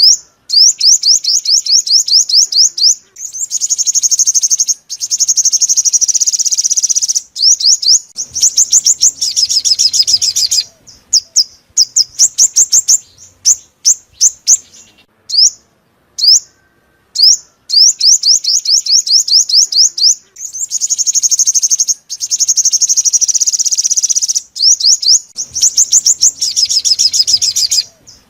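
Sunbird song, the bird Vietnamese keepers call the five-colour sunbird: rapid runs of high, thin notes and buzzy trills in phrases a second or two long, broken by short gaps. The phrases recur as a looped lure recording.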